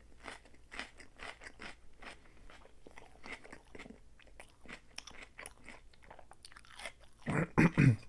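Close-up chewing of a mouthful of lettuce salad: a steady run of short, crisp crunches and wet mouth clicks. Near the end, three louder, lower mouth sounds.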